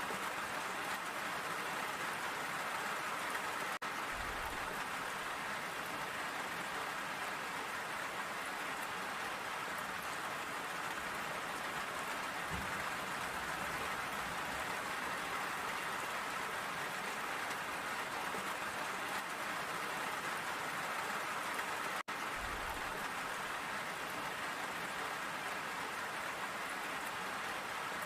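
Steady rain falling, an even patter that cuts out for an instant twice.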